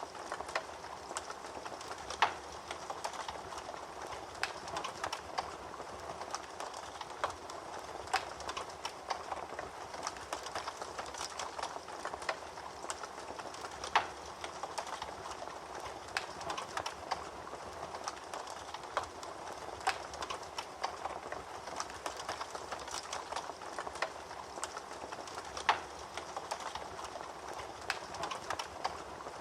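Fire in a fireplace crackling: a soft, steady hiss under frequent small irregular pops, with a few sharper, louder pops about two seconds in, near the middle and near the end.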